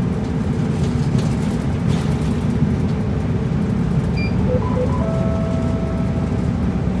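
Route bus running, a steady low engine and road noise heard inside the cabin. About four seconds in comes a short electronic chime of a few tones, ending in a held note.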